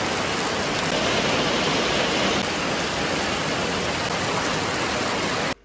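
Heavy rain pouring down, a loud steady hiss that cuts off suddenly near the end.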